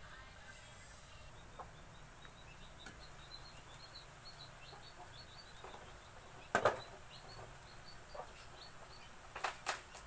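Birds chirping in quick, short high notes for several seconds. A sharp knock comes about two-thirds of the way through and is the loudest sound, and two more sharp clicks follow near the end.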